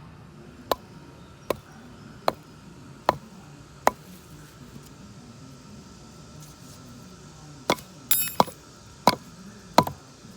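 Metal tent stakes being hammered into the ground: five sharp clinking strikes about a second apart, a pause of a few seconds, then a brief ringing metallic clink and three more strikes.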